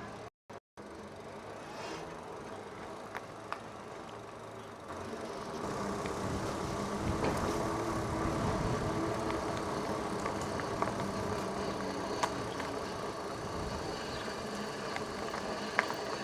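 Wind and tyre noise of a bicycle ride with a few light clicks and rattles. About five seconds in it grows louder and a low steady hum joins it.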